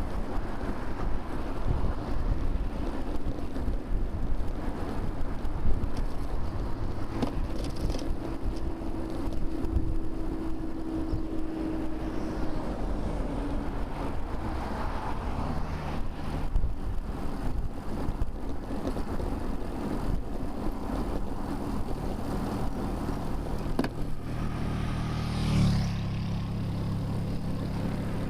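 Motor traffic passing a moving bicycle on a multi-lane road, a steady rumble with wind buffeting the microphone. Near the end a louder vehicle's engine hum comes in suddenly and carries on.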